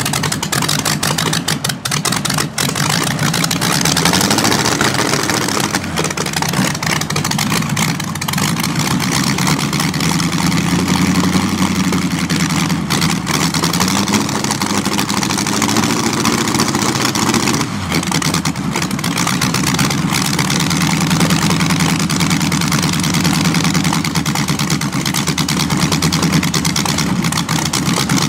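Inline 16-cylinder engine, built from two Buick straight-eights joined end to end, running at idle with several light throttle blips, its pitch rising and settling again.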